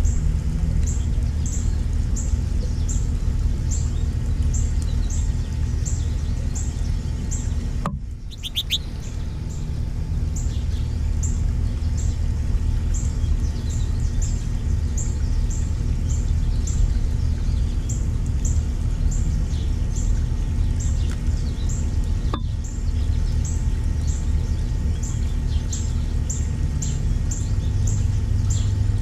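Small songbirds chirping, a short high note repeated about twice a second, over a steady low rumble. The sound briefly drops out about eight seconds in.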